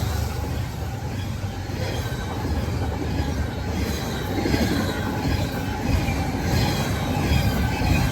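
A train running past, with the steady rumble of its wheels on the rails and a faint high squeal of wheels against the rail.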